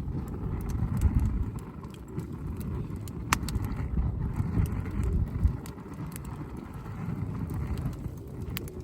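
Wood campfire crackling, with scattered sharp pops and one louder snap a few seconds in, over a steady low rumble.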